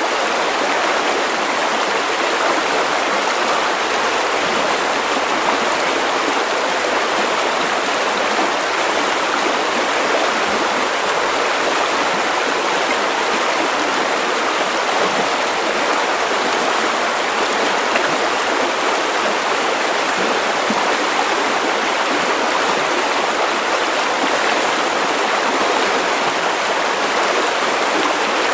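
River water running over stones: a steady, even rushing and babbling with no change in level.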